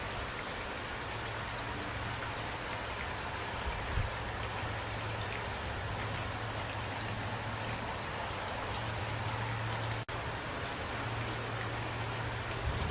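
Steady rain falling, with scattered individual drop hits and a steady low hum beneath. The sound cuts out for an instant about ten seconds in.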